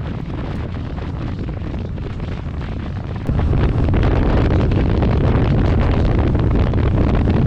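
Wind rushing and buffeting over the microphone of a Harley-Davidson cruiser motorcycle riding at highway speed, with the bike's running noise beneath. It gets suddenly louder about three seconds in.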